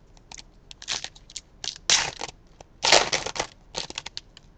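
Crinkling and rustling from trading cards and their packaging being handled, in irregular bursts that are loudest about two and three seconds in.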